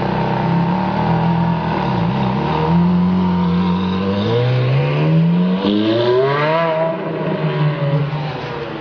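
Ferrari F430's V8 running through a Novitec aftermarket exhaust. It holds a steady note, then revs up sharply for a couple of seconds about four seconds in, eases back down, and fades near the end.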